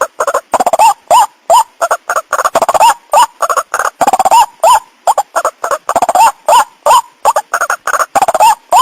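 White-breasted waterhen calling: a rapid, unbroken series of short, hoarse croaking notes, two or three a second. It is the species' lure call, used to draw in both male and female waterhens.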